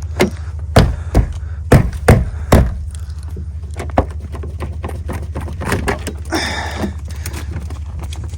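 An old truck engine running steadily after a cold start, with a low even hum throughout. About six loud thumps come in the first three seconds, a single click about four seconds in, and a short rustle near the end.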